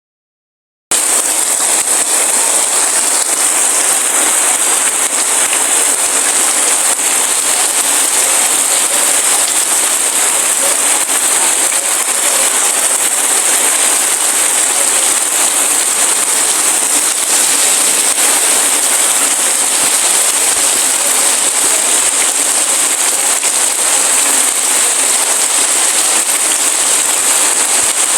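Heavy rain falling steadily, a dense even hiss strongest in the high range. It starts abruptly about a second in.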